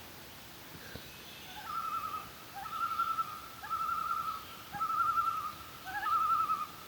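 Common loon giving its tremolo call: a quavering, wavering note held at one pitch, repeated in five phrases starting about two seconds in, with short rising notes between the phrases.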